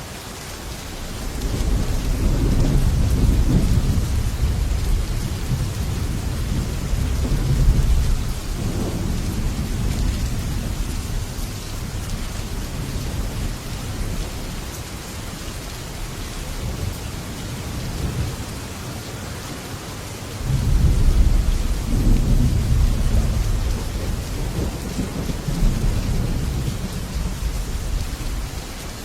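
Heavy rain falling steadily on a metal roof, with two long rolls of thunder: one building about a second in and rumbling on for several seconds, and a second that breaks suddenly about two-thirds of the way through.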